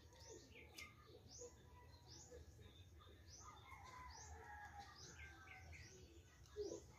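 Faint bird chirping: repeated short, high chirps, one or two a second. A brief soft sound is heard near the end.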